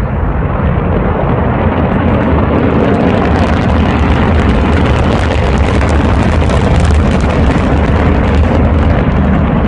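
Long, loud roar of a large explosion. Deep rumble with crackling on top builds over the first couple of seconds and then holds steady.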